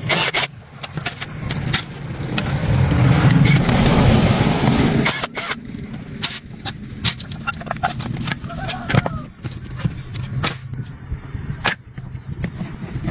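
A machine running with a steady low hum and a thin high whine, under many sharp metallic clicks and knocks. It is louder and rougher for a few seconds from about two seconds in.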